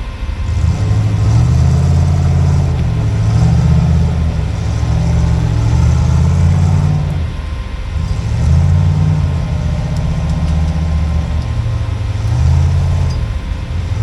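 Off-road rig's engine revving in repeated surges, the pitch rising and falling every few seconds as it works the rocks of the trail.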